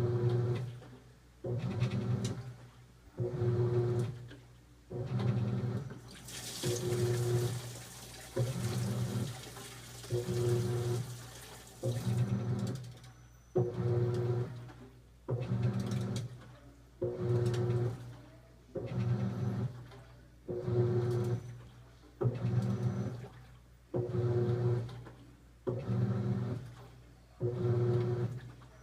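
Continental Aqua Saver 16 kg top-load washing machine agitating: the agitator motor hums in even strokes about every 1.7 seconds, each stroke with a swish of water and clothes. A hiss rises about six seconds in and lasts a couple of seconds.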